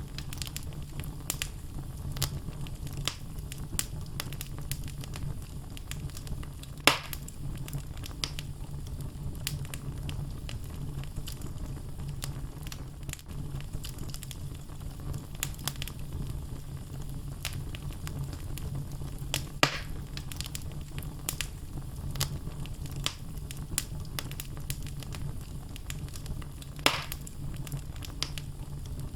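Wood logs burning in a fireplace: many small, irregular crackles over a steady low rumble, with three louder sharp pops spread through.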